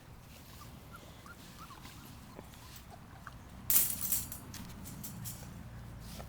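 Faint, short squeaks from young Bullmastiff puppies, with a brief loud rustling scuffle about four seconds in.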